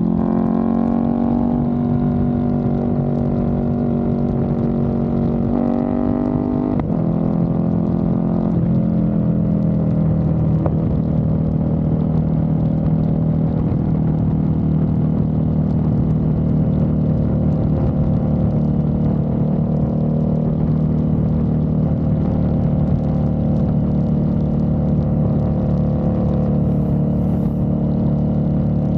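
KTM 1290 Super Duke R Evo's V-twin engine through a full titanium exhaust, running under way. The revs climb and drop back about three times in the first ten seconds, then hold a steady drone.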